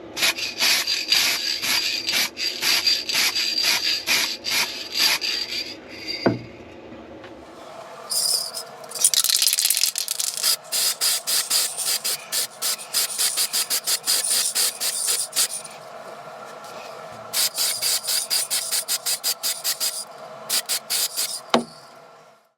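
Aerosol spray can of gloss black paint spraying in rapid short bursts of hiss, in three spells with short pauses between them: a light dust coat followed by the final coat. A short knock about six seconds in and another near the end.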